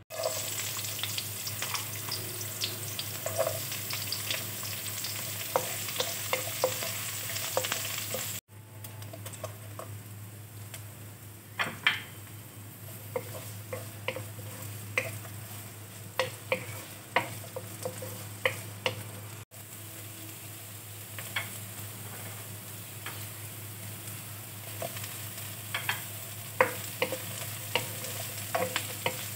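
Chopped shallots, ginger and lemongrass sizzling in hot oil in a nonstick wok, with a wooden spatula stirring and tapping against the pan in frequent short clicks. The sizzle drops out for an instant twice.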